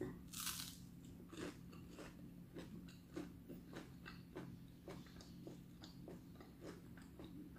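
Faint chewing of crispy fried chicken, with soft crunches about three times a second.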